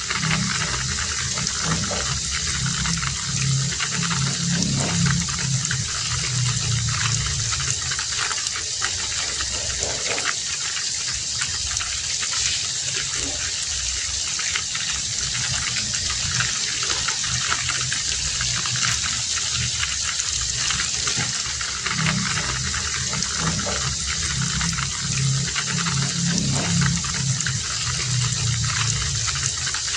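Heavy rain falling steadily, an even hiss of downpour. Under it a low sound swells and fades twice, near the start and again after about twenty seconds.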